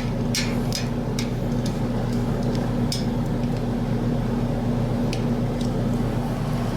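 A steady low hum, with a few light, scattered clicks of a wrench snugging a nut onto a stainless steel bolt.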